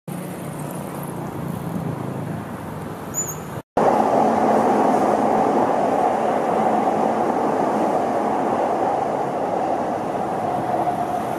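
Rinkai Line electric commuter train running past on the tracks below, a loud steady rolling rumble of wheels on rail. It cuts in abruptly about four seconds in after a split-second gap. Before that, a quieter city background with a low hum.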